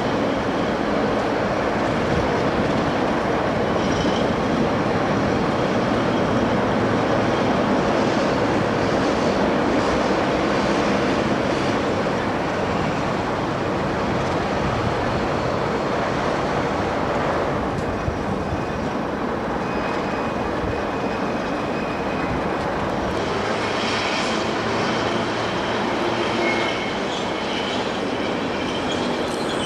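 A diesel-electric locomotive hauling a train, its engine working and the wheels running on the rails in a steady, loud rumble. Thin high wheel squeal comes in over the second half.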